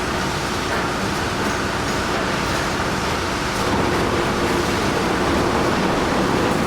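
Steady mechanical rumble and hiss of heavy machinery running, a little louder from about four seconds in.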